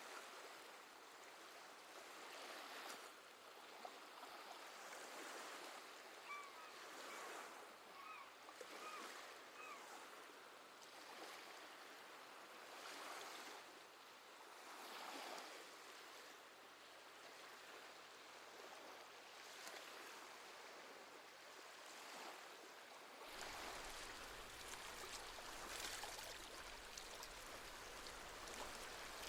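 Gentle sea waves washing in and drawing back, swelling every few seconds. A few short seabird calls come in a cluster about six to nine seconds in.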